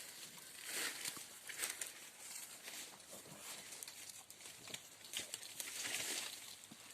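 Goats moving about: irregular rustling and shuffling with light patter, and no bleating.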